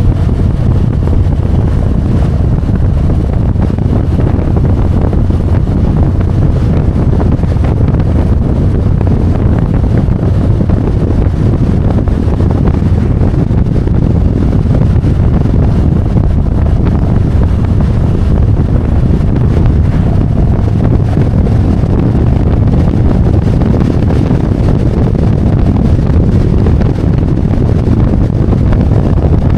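Harley-Davidson Road Glide V-twin engine running steadily while riding on the road, with heavy wind noise buffeting the microphone.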